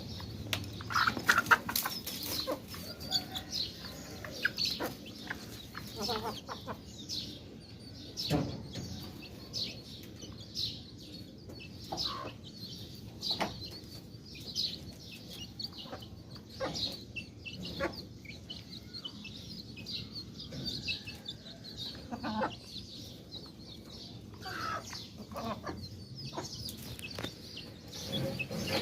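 Chickens clucking, with many short high calls and scattered short clicks throughout.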